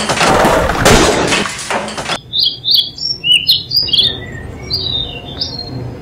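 A loud stretch of dense noise with many knocks cuts off abruptly about two seconds in. After it, small birds chirp in short, high calls that rise and fall.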